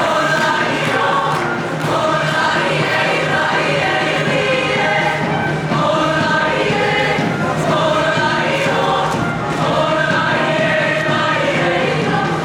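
Show choir singing in full chorus with instrumental accompaniment.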